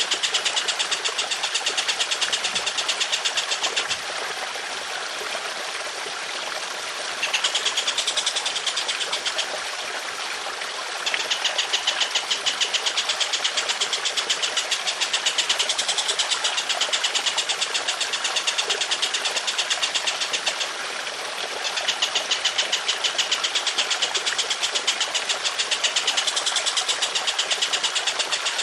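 A songbird's rapid, harsh rattling trill, delivered in long unbroken runs, over trickling water. The trill breaks off about 4 s in, again around 9 s and briefly around 21 s, leaving only the water.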